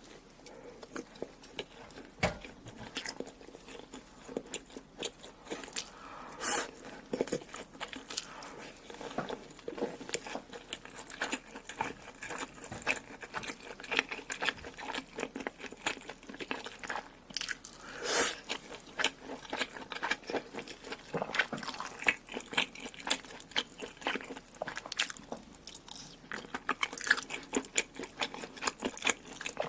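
A person eating: biting and chewing food with many quick, irregular wet clicks and smacks, and a few louder bites.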